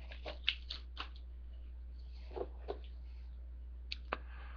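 Trading cards and their foil pack being handled: a few scattered soft clicks and rustles over a steady low hum.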